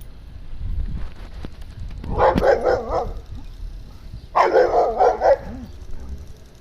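A dog barking in two short bouts of several quick barks each, about two seconds in and again past four seconds in.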